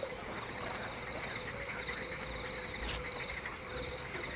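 Crickets chirping at night in repeated short pulsed trills, over a faint steady hum, with a single click about three seconds in.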